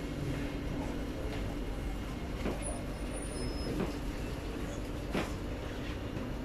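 Steady rumble and hum of an SMRT metro train standing at a station platform, with a few faint knocks.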